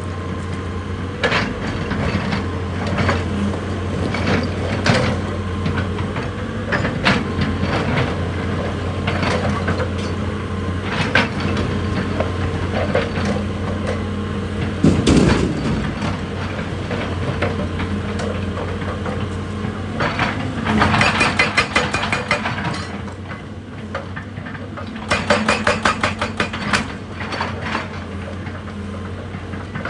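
Heavy diesel excavator engine running steadily, with scattered metallic knocks and two stretches of rapid clattering, the first about 21 seconds in and the second about 25 seconds in.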